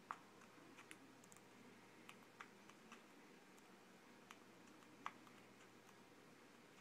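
Near silence with a few scattered faint clicks and ticks, typical of a small pet bird pecking at seed in its cage.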